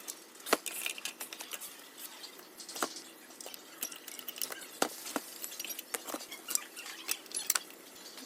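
Irregular light clicks and taps of metal tools and screws being handled while the rectifier board is taken out of a ZX7-315C inverter welder.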